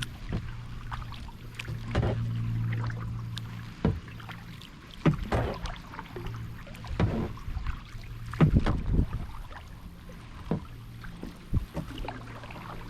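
Kayak paddle strokes in lake water: the blades dip and splash at irregular intervals, the loudest splash about eight seconds in, with a steady low hum underneath.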